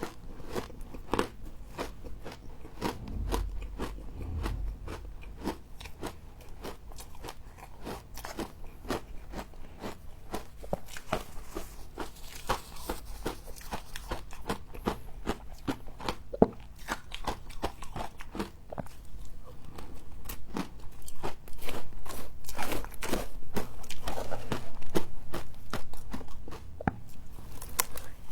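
Close-up crunching of humidifier frost being bitten and chewed: a dense run of sharp, crackly crunches that grows louder and busier about two-thirds of the way through.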